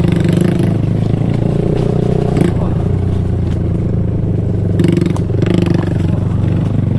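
A mini bike's small single-cylinder four-stroke engine running steadily while riding a trail, with short bursts of clatter near the start, about two and a half seconds in and about five seconds in.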